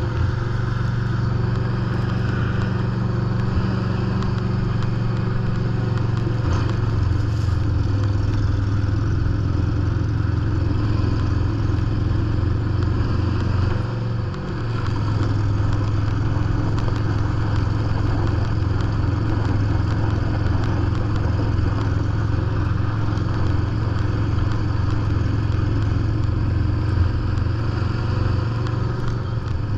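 A John Deere lawn tractor's engine runs steadily under load as it drives a 44-inch snow blower through heavy compacted snow. There is a brief dip in level about halfway through.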